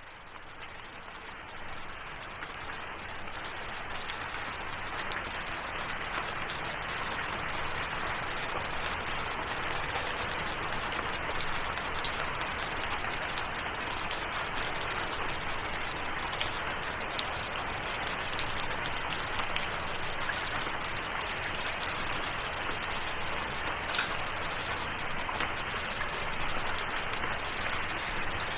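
Steady rain falling on surfaces, with scattered sharp drip ticks. It fades in from silence over the first couple of seconds, then holds steady.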